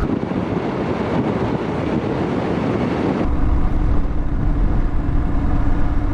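Motorcycle riding with wind rushing over the microphone. About three seconds in, the engine's steady low drone comes to the fore.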